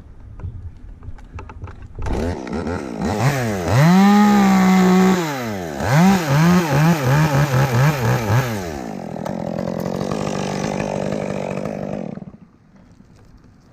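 Two-stroke chainsaw coming on about two seconds in, revving up to a steady full-throttle pitch, dropping back, then blipped up and down several times in quick succession, followed by a rougher, noisier stretch until it cuts out near the end.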